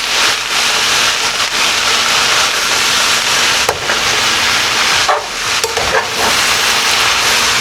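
Pot sizzling steadily as fresh spinach is added to the hot pan and stirred in, with a few light knocks.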